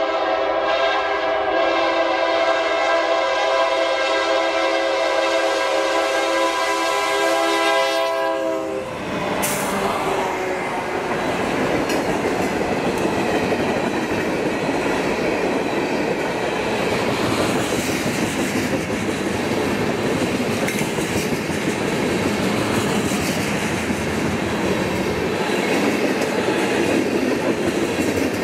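Diesel freight locomotive's air horn blowing steadily as the train approaches, dropping in pitch as it passes about eight seconds in and then stopping. After that, the steady rumble and clatter of a long string of tank cars rolling by on the rails.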